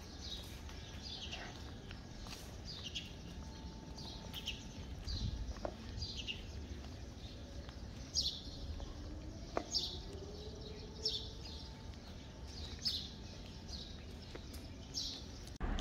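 A small bird chirping again and again: short, high chirps that fall in pitch, about one or two a second, over faint outdoor background noise. Two faint clicks come in the middle.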